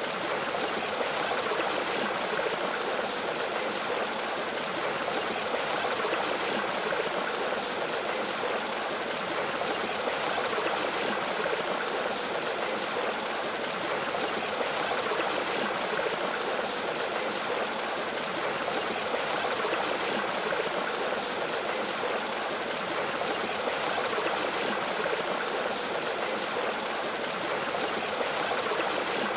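Mountain stream flowing over rocks with a small waterfall: a steady, even rush of water.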